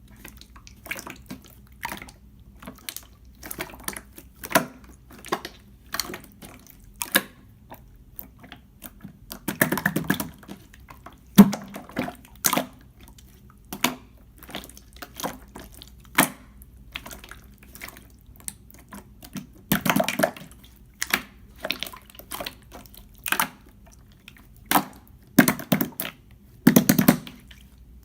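Clear slime being squeezed and pressed by hand: irregular sticky clicks and pops, with a few longer wet squelches.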